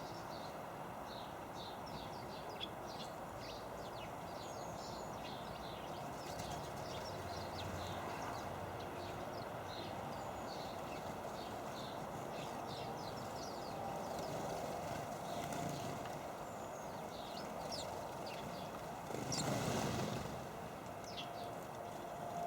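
Small garden birds chirping and calling over and over in quick, short notes at a feeder, over a steady low background rumble. A brief louder whoosh comes near the end.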